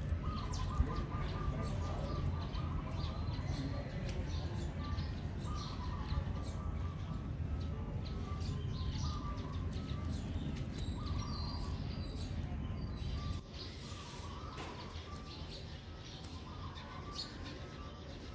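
Small birds chirping in short, repeated calls over a steady low rumble that drops away about thirteen seconds in.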